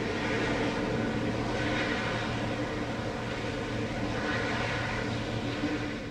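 Airliner engines running steadily, with a hiss that swells and fades about every two seconds.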